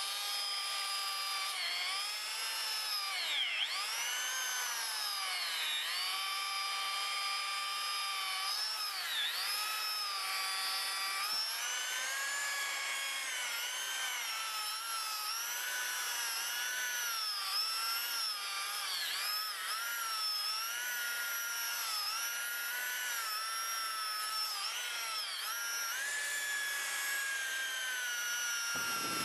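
Handheld electric polisher running on auto trim molding during the final polishing pass, its motor whine dipping in pitch and recovering again and again. It cuts off near the end.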